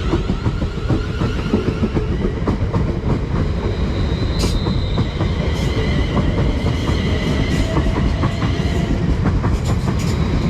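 Class 350 Desiro electric multiple unit, two units coupled, pulling out of the station, with a steady rumble and its wheels clacking over the rail joints.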